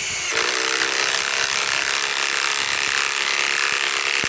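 Ryobi PSBIW25 compact cordless impact wrench running continuously under load, driving a fastener deep into wood. A steady hum joins its loud noise shortly after the start.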